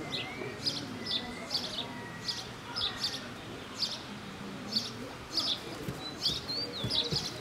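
A bird chirping over and over in short, sharp notes, about two a second, with a few thin whistled glides between them.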